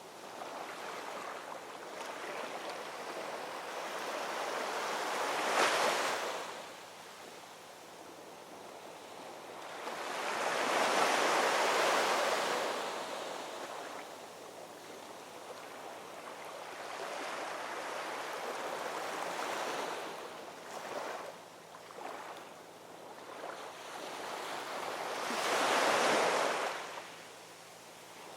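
Ocean waves breaking and washing up on a shore in slow swells: four surges, the broadest and loudest about eleven seconds in, each ebbing away before the next.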